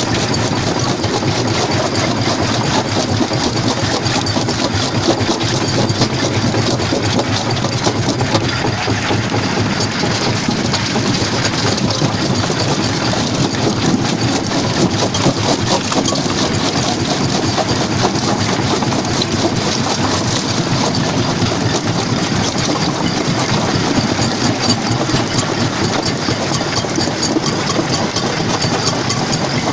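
Stone-crushing jaw crusher plant running steadily, a loud continuous machine rumble with a constant rattle of many small knocks as rock is crushed.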